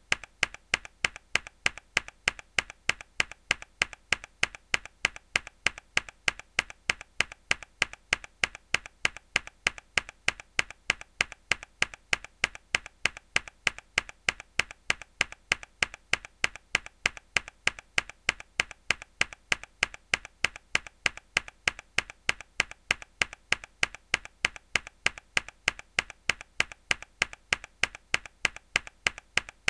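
A mechanical keyboard key pressed hard again and again, each press a sharp click, repeating evenly about three times a second.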